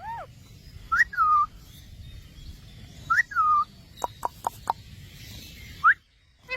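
Pet parrot calling: short squawks that rise and fall in pitch, a quick run of four sharp chirps about four seconds in, and one more rising call near the end.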